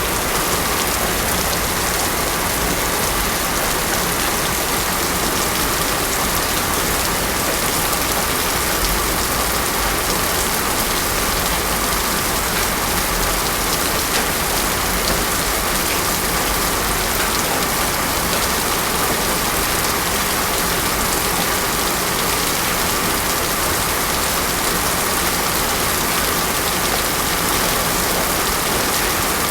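Heavy rain falling steadily on a road surface, a dense even hiss of drops.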